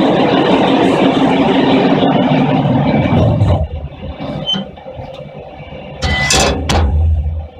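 Flexo sleeve washing machine running with a loud, steady rushing noise that drops off sharply about three and a half seconds in, then a second loud burst with a low hum near the end.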